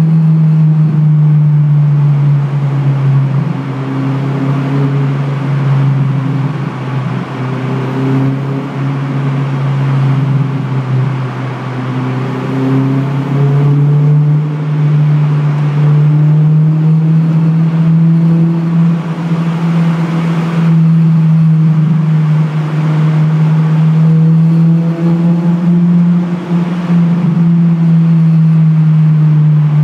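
Honda Civic Type R EP3's 2.0-litre four-cylinder engine and exhaust, heard from inside the cabin while driving through a tunnel, holding a steady drone. About four seconds in the pitch and loudness sag a little, and they climb back up about fourteen seconds in.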